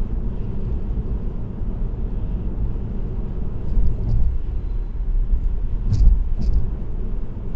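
Steady low road rumble and tyre hum from a car cruising on an expressway, with two short ticks about six seconds in.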